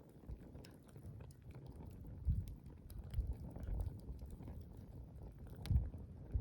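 Wood campfire crackling, with scattered sharp pops over a low rumble that swells a few times, most strongly about two seconds in and near the end.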